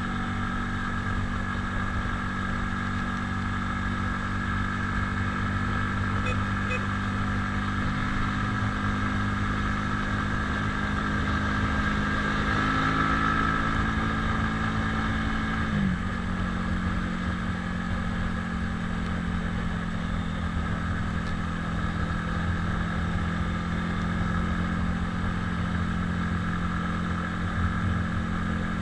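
Italika 250Z motorcycle engine running at a steady cruising speed, with a steady hiss underneath. About halfway through the engine note dips briefly and then settles a little lower.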